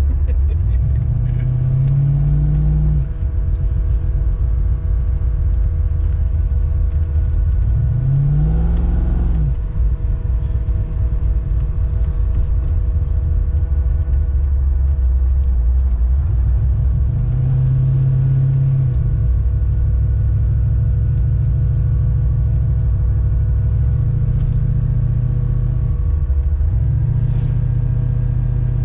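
Holden VL Turbo's turbocharged 3.0-litre straight-six engine running under load while driving. The revs climb and then drop back several times, as in accelerating and changing gear, over a steady low drone.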